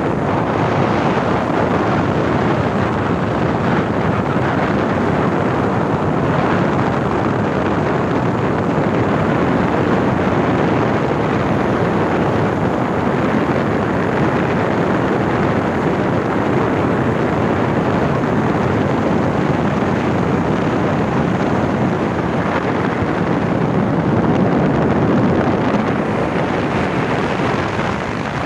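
Speedboat running at speed, its engine noise merged with rushing water and wind buffeting the microphone into a steady, loud roar.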